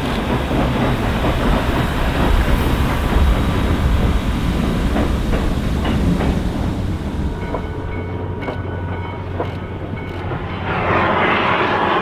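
A train passing, its wheels clicking over rail joints with a low rumble. Several steady tones sound in the second half, and a louder rushing noise sets in near the end.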